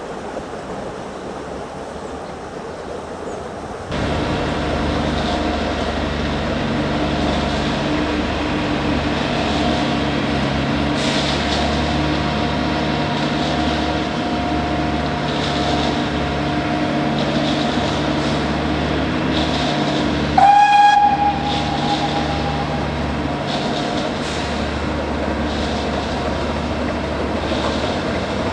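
Wind rumbling on the microphone, then abruptly a narrow-gauge steam train running with a steady clatter and hum. About twenty seconds in, the locomotive gives one short, loud steam whistle blast.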